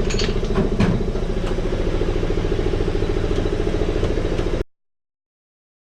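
A motor running steadily with an even pulsing drone, with a few sharp metal clanks in the first second and a half, cutting off suddenly about four and a half seconds in.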